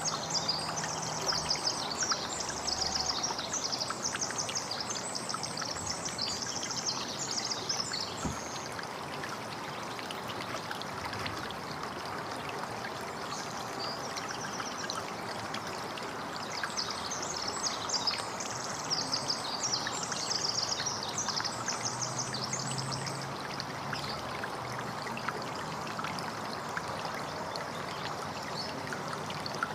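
Water running and trickling steadily, with a songbird singing fast, high, chattering phrases in two spells: through the first several seconds and again a little past the middle.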